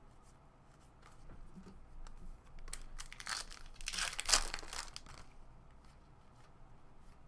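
A baseball card pack's wrapper being torn open and crinkled. The rustle builds from about a second in, is loudest around the fourth second, and fades away soon after.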